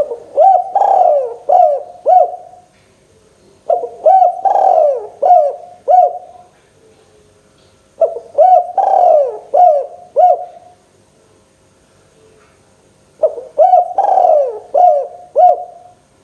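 Spotted dove (tekukur) cooing: four phrases of about five low, rounded coos each, a few seconds apart.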